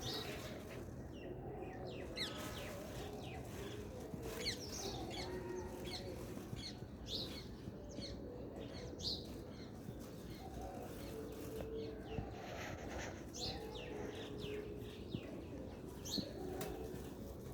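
Pigeons cooing in low tones, with wings flapping and many short, high bird chirps throughout.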